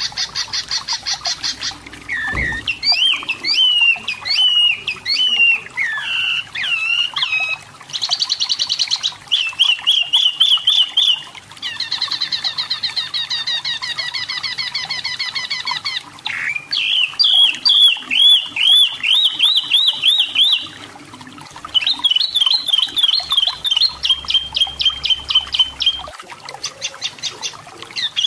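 Striped tit-babbler (wambi mini, tepus lurik) singing and calling in a continuous string of varied phrases: fast runs of repeated notes, slurred up-and-down whistles and rapid trills, with short breaks between phrases.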